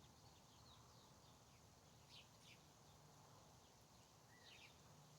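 Faint bird chirps: a couple of short high calls about two seconds in and a few more near the end, over quiet outdoor background.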